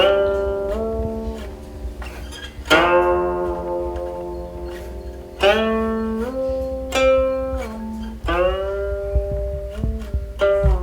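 Guqin, the seven-string Chinese zither, played solo: about six plucked notes and chords, a second or three apart. Each rings on while the player's left hand slides it up or down to new pitches.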